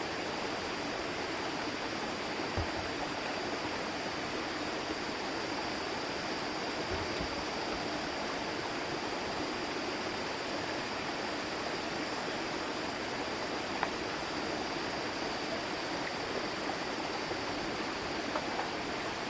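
Steady rushing of running water, with a thin, high, steady tone over it and a few faint knocks.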